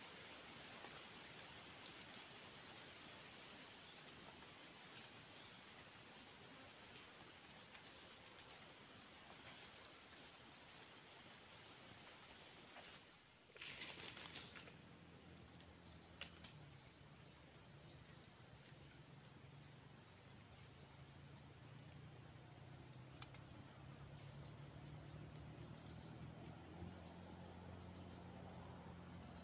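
Forest insects droning steadily at a high pitch, with a higher layer that pulses on and off about once a second. About halfway through, the sound briefly drops and then comes back louder.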